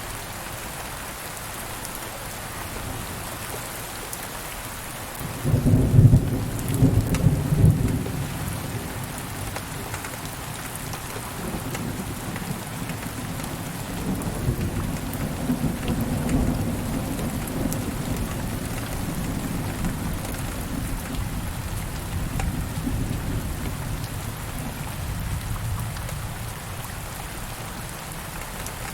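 Steady rain falling, with thunder: a sudden loud crack about five seconds in, then a long, deep rumble that swells and fades over the second half.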